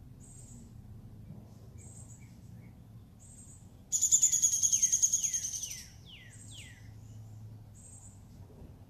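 Birds calling: short high notes and quick down-slurred chirps repeat. About four seconds in comes a loud, rapid, buzzy trill that lasts about two seconds and fades away.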